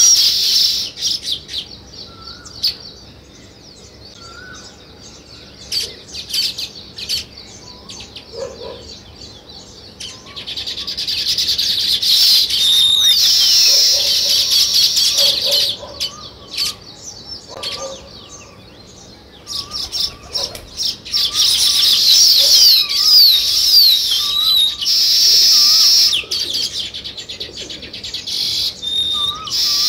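Sparrows chirping in a dense chorus that swells into loud spells about ten seconds in and again from about twenty seconds, thinning out between, with a separate repeated wavering note lower down.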